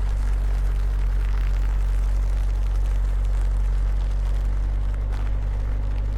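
A vehicle engine running steadily, a constant low drone with no revving.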